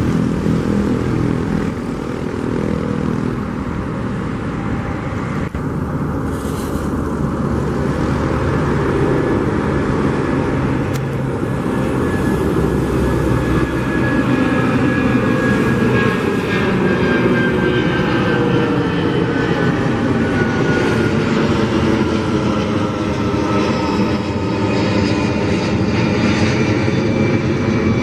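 Rolls-Royce Trent 700 turbofans of an Airbus A330-200 freighter running, a loud steady rumble with a jet whine that bends slowly lower in pitch in the second half.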